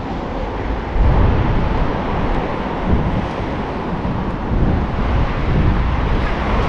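Road traffic running past with wind buffeting the microphone, the low rumble gusting up from about a second in.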